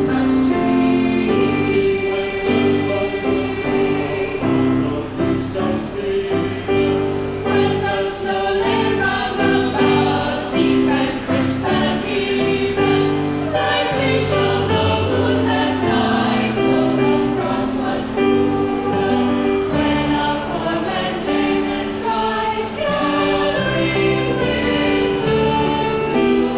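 A choir singing a Christmas song in held chords.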